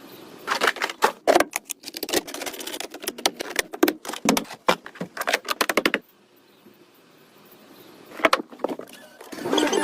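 A rapid, irregular run of sharp metallic clicks and clatters lasting about five seconds, then a short pause and a few more clicks.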